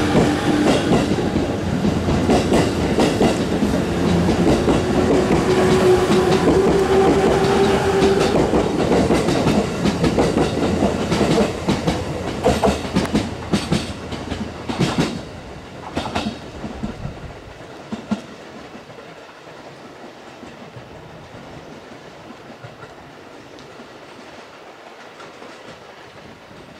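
JR East E257 series 5000 electric multiple unit running past at close range, wheels clacking over rail joints with a steady motor whine. The noise thins to a few last clacks and dies away after about fifteen seconds, leaving only faint distant train noise.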